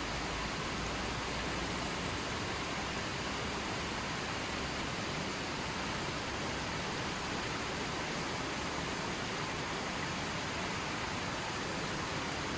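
Rain falling steadily, an even hiss with no separate drops standing out.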